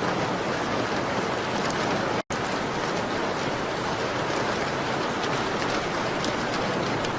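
Steady rain on window glass, an even hiss with faint scattered ticks. It cuts out completely for a split second about two seconds in.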